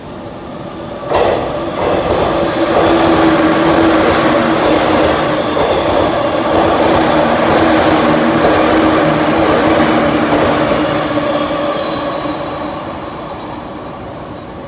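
Electric train passing through a station at speed without stopping: the sound comes in suddenly about a second in, holds as a loud steady rush of wheels on rail with a steady whine, then fades away over the last few seconds.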